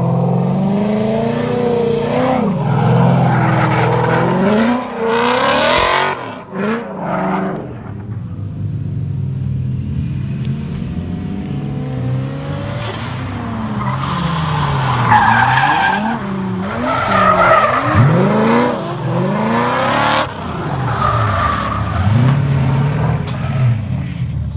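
Drift car engines revving hard and dropping back again and again as the cars slide through corners, with bursts of tyre squeal and skidding on wet pavement.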